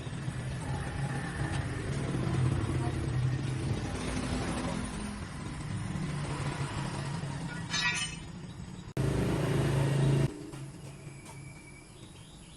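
A motor vehicle's engine running steadily with a low hum. There is a sudden louder stretch of about a second, some nine seconds in, and it is quieter near the end.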